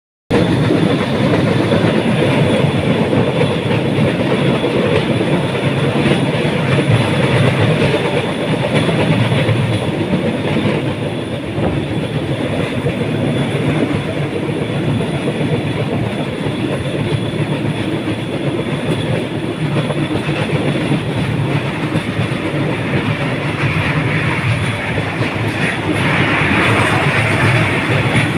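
Battambang bamboo train (norry) running along the rails: a steady, continuous running noise of its wheels on the track, growing brighter and harsher near the end.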